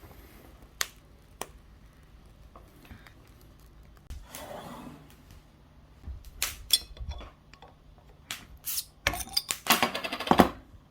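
Sharp clinks, clicks and knocks of cookware and utensils being handled. They come sparsely at first, with a short rustle partway through, then crowd together and grow loudest in the last few seconds.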